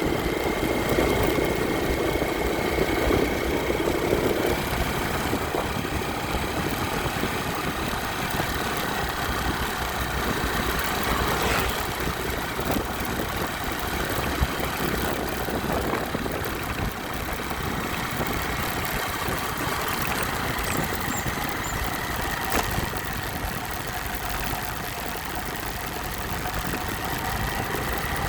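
Motorcycle engine running steadily, heard on the bike; its note changes about four and a half seconds in.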